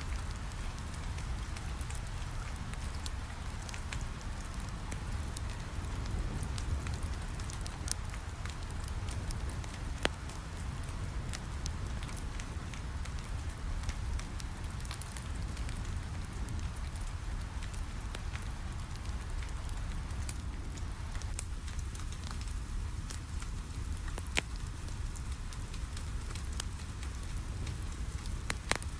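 Rain falling steadily on a window mixed with a wood fire crackling in a fireplace, with scattered sharp pops from the fire over a low, steady rumble.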